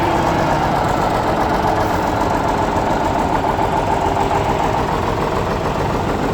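Diesel engine of a DZ-143 motor grader idling steadily, just cold-started in −29 °C frost.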